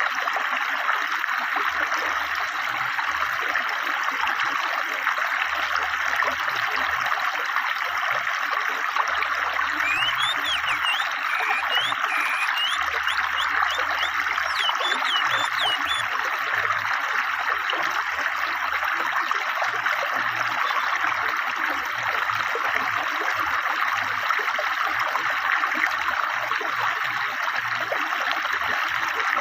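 A fast, clear stream running steadily over rocks. About a third of the way in, a forest bird gives a quick series of short chirps that lasts several seconds.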